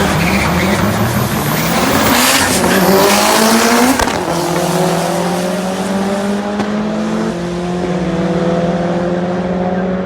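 Race car engine revving up, its pitch rising for about four seconds with tyre squeal in the middle, then after a sharp click settling to a steadier engine note that climbs slowly.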